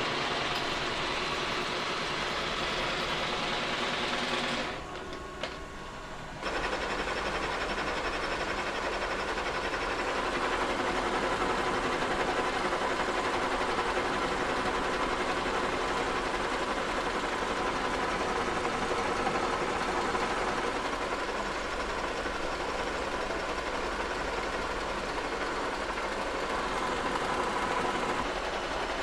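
End mill on a Kearney & Trecker 2HL horizontal mill cutting a cast iron straight edge casting, a steady whirring machining noise with faint ringing tones. It drops briefly about five seconds in, then picks up again and runs on evenly.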